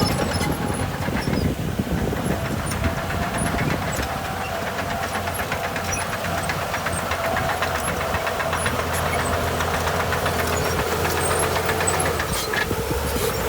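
Heavy diesel engine of earthmoving machinery running steadily under work, with a thin whine over it.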